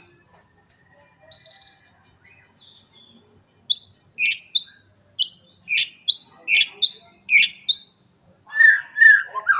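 White-rumped shama (murai batu) singing: a short buzzy note, then a run of about eight sharp rising whistles at about two a second, then a lower warbling phrase near the end.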